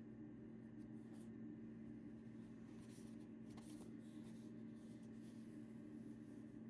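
Near silence: a steady low hum of room tone with a few faint, brief rustles of something being handled.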